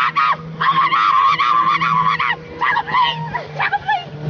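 High-pitched, wavering screams from several people, repeated in short cries, over the steady drone of a motorboat engine.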